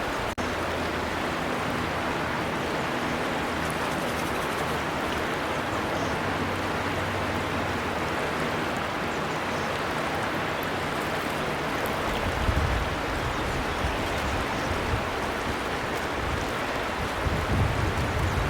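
River water flowing steadily, an even rushing noise, with a brief dropout just after the start and low gusty rumbles in the second half.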